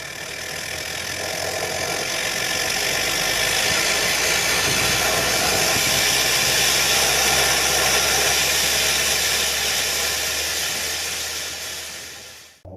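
Vehicle engine running steadily through an aftermarket racing exhaust, a low drone under a strong jet-like hiss. It swells in over the first few seconds and fades away near the end.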